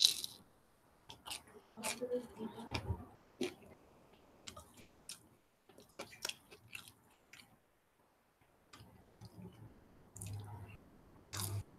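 A man biting into and chewing a slice of pizza: soft, irregular mouth clicks and small crunches with pauses between.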